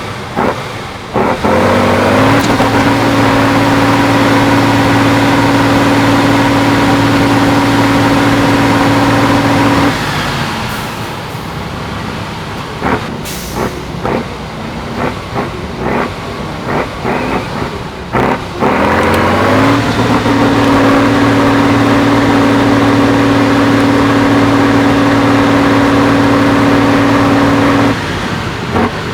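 A heavy off-road trial truck's diesel engine revs up and holds at high revs for about eight seconds. It then drops to a rougher, lower-revving stretch with clattering knocks, and revs up and holds high again, falling back near the end.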